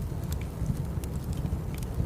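Burning firewood crackling: scattered sharp pops and snaps over a steady low rumble of the fire.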